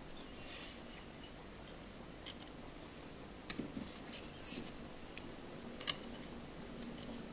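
Faint clicks and light scraping of a small screwdriver and small metal parts while the screws and metal cover inside an iPhone 5 are removed. A handful of sharper clicks come around the middle.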